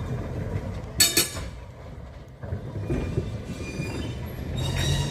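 Vintage electric tram running along its track with a steady low rumble, and a brief, sharp, high-pitched metallic sound about a second in.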